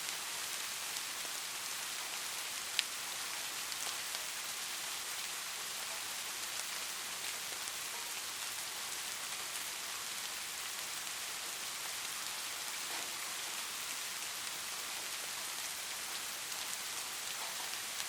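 Light rain falling steadily: an even hiss with scattered drops ticking, one sharper drop about three seconds in.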